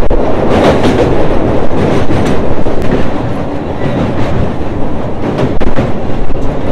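Suburban electric local train running at speed, a loud steady rumble with the wheels clacking irregularly over the rail joints.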